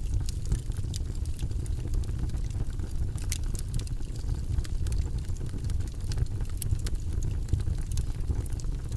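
Logs burning in a fireplace: irregular sharp crackles and pops over a steady low rumble.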